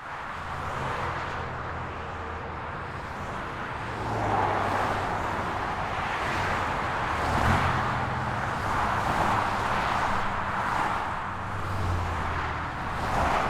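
Outdoor ambience dominated by road traffic: a steady rush with low engine hum that swells and fades several times as vehicles pass.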